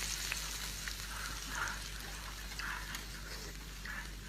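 Hot oil poured over octopus, its sizzle dying down to a faint hiss with scattered small crackles.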